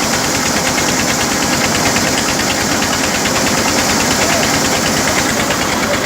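Tractor's diesel engine running steadily with a fast, even chugging, driving a flour mill (atta chakki).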